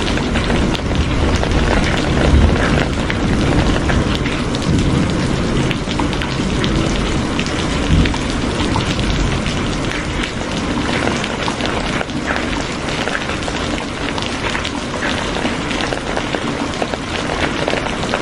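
Steady heavy rain, a dense hiss with many individual drops pattering through it. A low rumble sits under it in the first half and dies away after about ten seconds.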